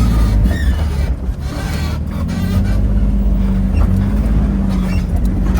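Off-road vehicle's engine running low and steady while crawling a trail, heard from the passenger seat, with a few knocks from the vehicle.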